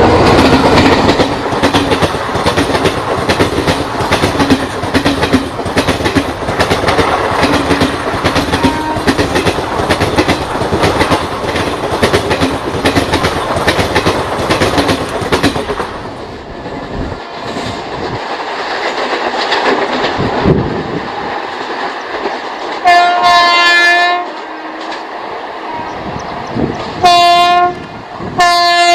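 An electric locomotive-hauled passenger train passes at speed, its coach wheels clattering over the rail joints. After the sound drops about halfway through, an electric locomotive's air horn sounds three times: one blast of about a second, then two short blasts near the end.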